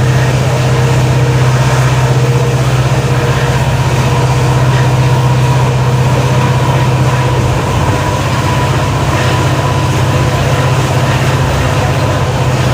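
A moving passenger train with the steady, loud low hum of a WDP4D locomotive's EMD two-stroke diesel engine working, over a constant rush of wheel and rail noise. The hum dips briefly about eight seconds in, then carries on.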